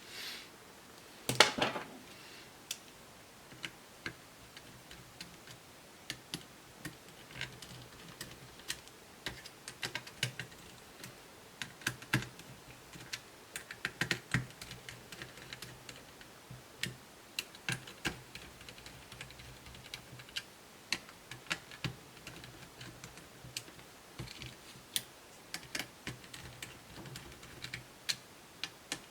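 Irregular light clicks and taps of small metal and plastic laptop parts and a screwdriver being handled while a heatsink and fan assembly is fitted to a laptop motherboard, with one louder clatter about a second and a half in.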